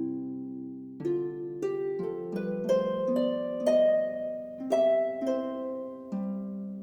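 Calm instrumental background music: plucked, harp-like notes over held chords, a new note struck every half second or so.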